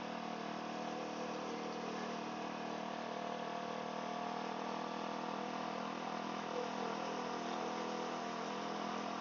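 Motorcycle with an aftermarket sport exhaust running at a steady speed, heard muffled through a microphone inside the rider's helmet: an even engine drone with no revving.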